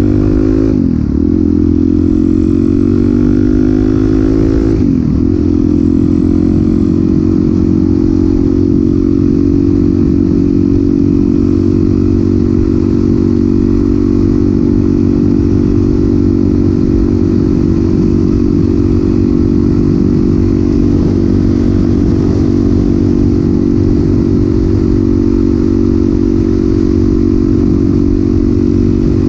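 Suzuki DR-Z400SM's single-cylinder four-stroke engine running loud through a Yoshimura exhaust. The engine note drops sharply and climbs back twice, about one and five seconds in, then holds a steady pitch.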